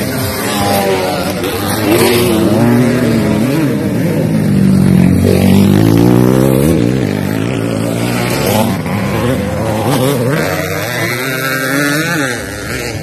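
Several motocross motorcycle engines running at once, their pitch repeatedly climbing and dropping as riders open and close the throttle; the engines are loudest around the middle.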